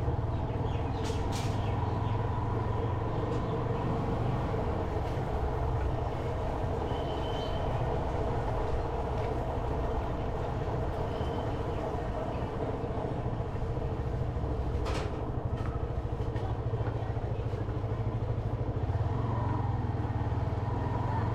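Motorcycle engine running steadily while riding, a constant hum with no revving. A sharp click comes about a second in and another about two-thirds of the way through.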